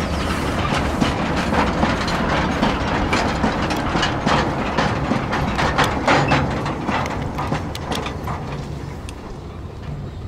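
Narrow-gauge steam train running by, its wheels clicking and clattering over the rail joints amid a steady rumble, the sound fading away near the end.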